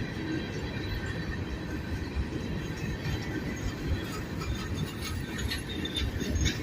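Ballast train's freight cars rolling past: a steady rumble of steel wheels on rail with a few clicks, and a faint, thin wheel squeal held steady above it.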